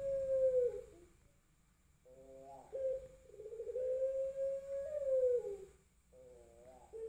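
Male puter pelung dove, a long-cooing strain of the Barbary dove, cooing. One long, low coo slides down and ends about a second in. After a pause comes a short warbled note, then another long coo that falls at its end, and a third begins near the end.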